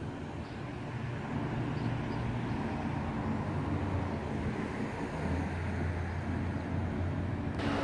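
Motor vehicle engine running nearby: a steady low hum that grows slightly louder, with a sudden rise in hiss just before the end.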